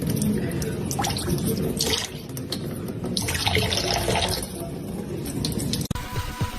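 Water sounds with irregular splashes and drips, cut off suddenly about six seconds in.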